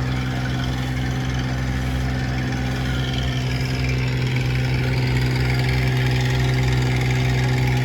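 Small passenger boat's engine running steadily at an even pitch, with the rush of water and wind over it.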